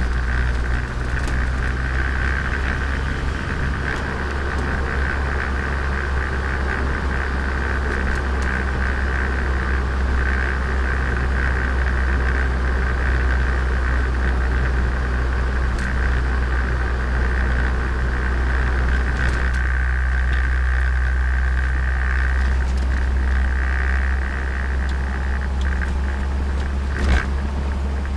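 Turbocharged Nissan Micra engine running at a steady cruise with a constant low rumble from the car in motion. The engine note shifts about two-thirds of the way through, and a single sharp click comes near the end.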